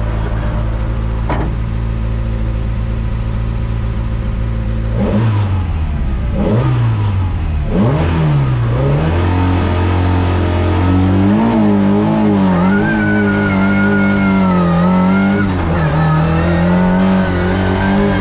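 Lada 2101 race car's four-cylinder engine heard from inside the cabin: idling steadily, then revved three times in quick rising-and-falling sweeps, then held at high, slightly wavering revs, with a short drop in pitch near the end.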